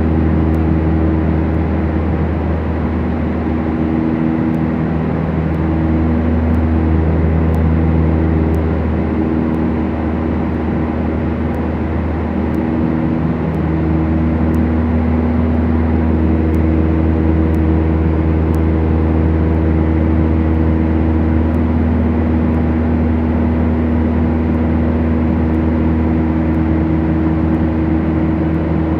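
Cabin drone of a Beechcraft Duchess's two four-cylinder Lycoming piston engines and propellers running steadily. The engine tones waver for several seconds early on, as the two engines drift in and out of sync, then settle into a steady hum.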